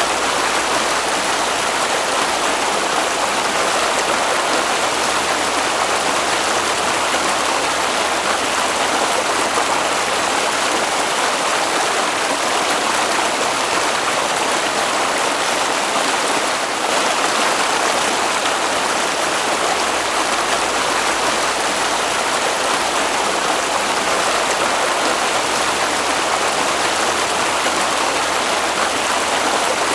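Water flowing in a stream, a steady rushing sound.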